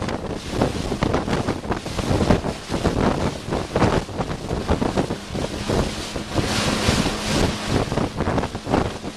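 Strong wind buffeting the microphone in irregular gusts over the rush of choppy water, with a faint steady hum underneath.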